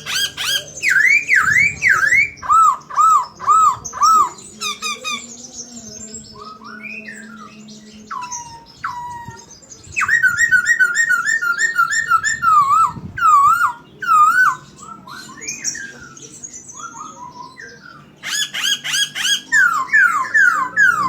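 Poksay Hongkong songbird in full song: loud, varied whistled phrases made of quick runs of repeated rising-and-falling notes, broken by a couple of quieter pauses.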